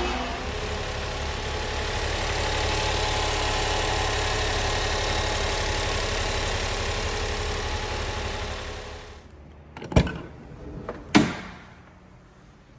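Honda Acty kei truck's small three-cylinder engine idling steadily, then shut off about nine seconds in. Two sharp thumps follow, a little over a second apart.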